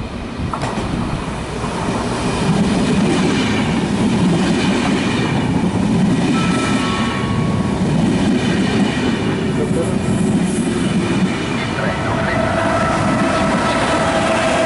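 Trenitalia push-pull regional train of Vivalto double-deck coaches, with an E464 electric locomotive at the rear, running through the station: a steady rumble of wheels on rail that grows louder over the first couple of seconds. Near the end, as the locomotive goes by, a steady electric whine joins the rumble.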